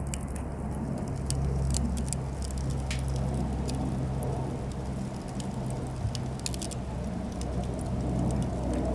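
Cedar offcuts burning in a campfire, crackling with scattered sharp pops at irregular intervals, over a steady low rumble.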